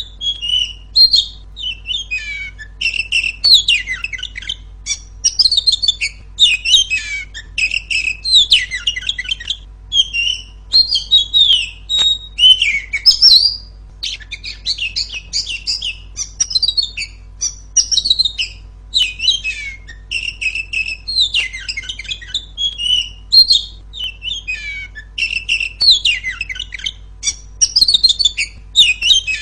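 Female oriental magpie-robin singing continuously in loud, clear phrases of rapid whistles, trills and harsh chatters, with brief pauses between phrases.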